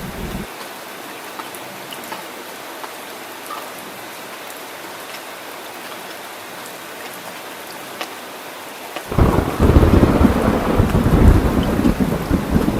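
Heavy rain falling with a steady hiss; about nine seconds in, a loud, deep rumble of thunder rolls in and carries on under the rain.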